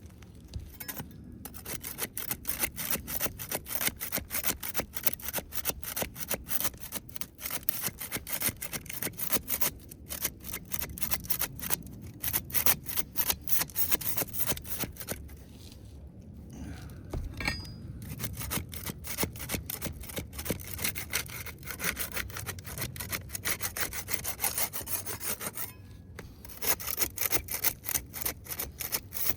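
Flat bar scraping under asphalt composition shingles to loosen them for removal: a run of quick gritty rasping strokes against the granule surface. There are short pauses about a second in, around ten and sixteen seconds, and again near the end.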